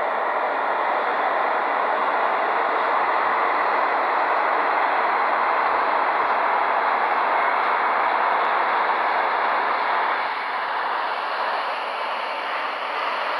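Seoul Subway Line 2 electric train running through a tunnel, heard from on board: a steady rush of wheels on rail that eases a little about ten seconds in.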